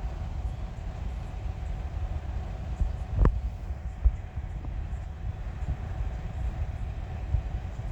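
Train passing over a level crossing: a steady low rumble of wheels on rail, with a sharp clunk about three seconds in and a smaller knock a second later.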